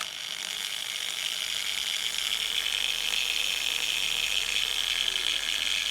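Small 5-inch APT angle grinder switched on and running with no load. Its soft start shows as a high whine that builds gradually over the first few seconds rather than jumping straight to full speed, then holds steady.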